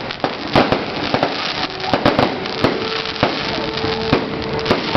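Fireworks display: a rapid series of sharp bangs over continuous crackling, with a steady whistle-like tone joining about two seconds in.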